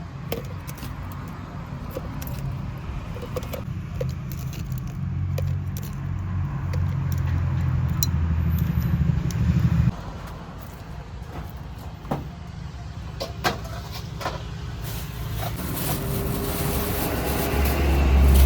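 Street food stall ambience: a low steady rumble that cuts off suddenly about halfway through, with scattered light metallic clinks and taps of cooking utensils, and a rising rush of noise near the end.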